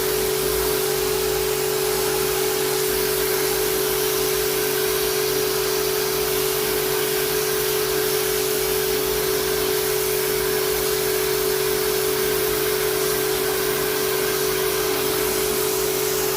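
Electric high-pressure washer running steadily, its motor holding one constant hum under the hiss of the water jet spraying the air conditioner's coils clean.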